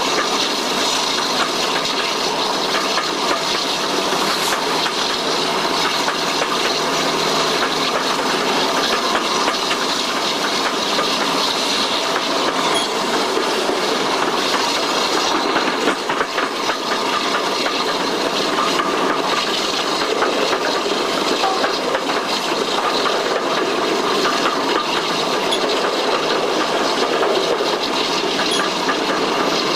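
A diesel-hauled passenger train running along the line, heard from an open carriage window: a steady rush of air and wheel noise, with the wheels clicking over the rails.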